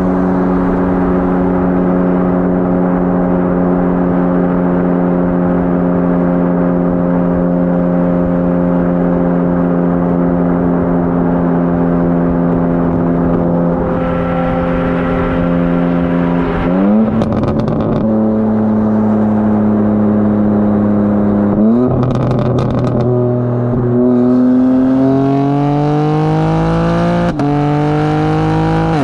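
BMW G82 M4 Competition's twin-turbo inline-six, with high-flow cats and downpipes, held at steady revs for about seventeen seconds. The revs then jump quickly twice, with a few short sharp clicks. Near the end the engine pulls through steadily rising revs, drops once at a shift, and climbs again.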